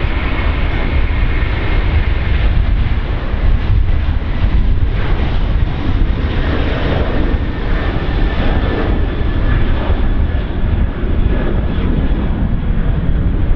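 Airbus A330-200's two GE CF6-80E1 turbofans at takeoff power: a loud, steady jet roar with a deep rumble and a faint high whine over it.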